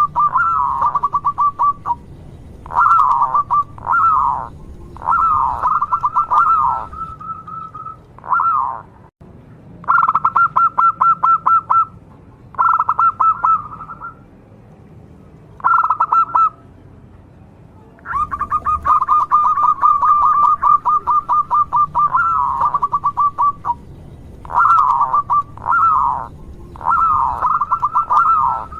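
Zebra dove (perkutut) cooing: phrases of rapid pulsed notes and short curved coos, which the uploader calls "gacor" (calling steadily), repeat with brief pauses. The longest runs of notes are about 2 seconds and 5 to 6 seconds long.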